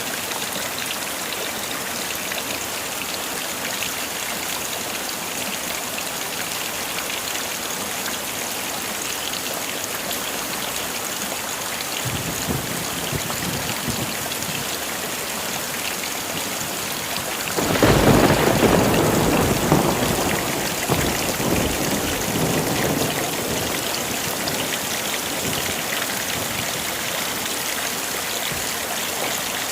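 Heavy rain falling steadily, with thunder: a faint low rumble begins a little under halfway through, then a loud thunderclap comes about two-thirds through and rolls away over several seconds.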